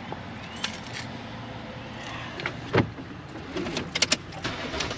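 Inside a car: a steady low hum with scattered clicks and small knocks, the strongest knock about three seconds in and a quick cluster of clicks near the end.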